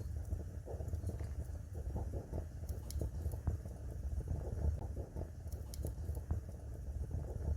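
Fire burning in a fireplace, crackling irregularly with a few sharp pops over a steady low rumble.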